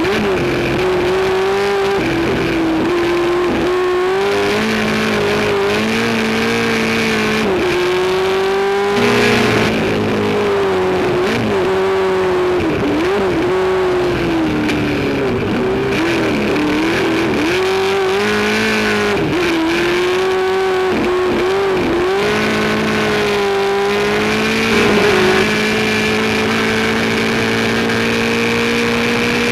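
Race car engine running hard, its pitch dipping and climbing again and again as the throttle is lifted and reapplied, briefly louder twice, then a long steady rise in pitch near the end.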